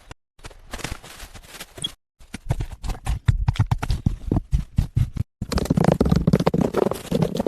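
Rapid, irregular knocks and scraping from hand work, heard in short edited segments with brief dead-silent cuts between them; the busiest, loudest stretch comes in the second half.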